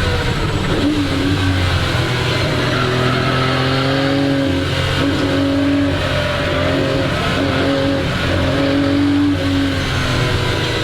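The Colombo V12 of a 1961 Ferrari 250 GT SWB running hard on a race track. Its note holds steady, then breaks and dips several times as the throttle lifts and gears change.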